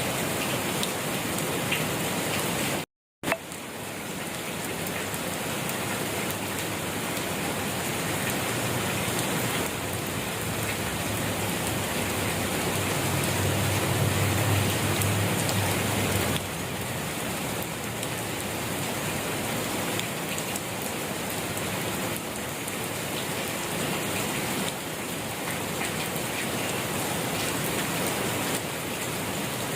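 Steady rain falling on a surface, an even hiss of drops. It cuts out completely for a split second about three seconds in, and a low rumble swells under it midway.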